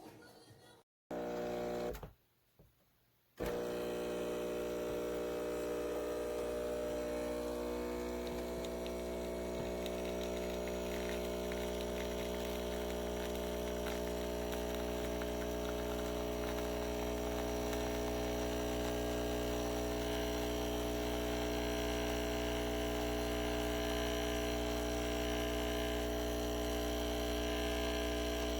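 An espresso machine's pump humming steadily: a low, even drone with a stack of steady tones above it. It starts about a second in, drops out briefly, then runs on without change.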